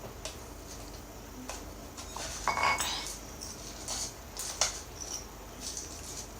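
Eating utensils clinking and scraping against a bowl: a few sharp clicks, and one brief ringing clink about two and a half seconds in.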